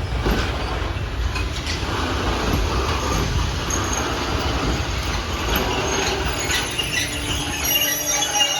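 Train running past on the rails: a steady rumble with short clacks of wheels over the rail joints. Thin wheel squeal sets in about seven seconds in.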